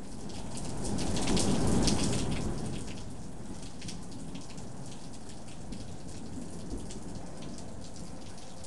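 Steady rain falling during a summer thunderstorm, with a low rumble of thunder that swells and fades over the first three seconds.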